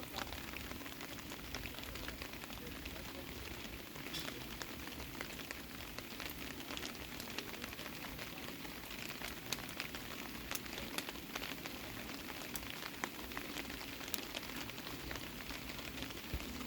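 Steady rain falling, with many scattered sharp ticks and pops over the even hiss.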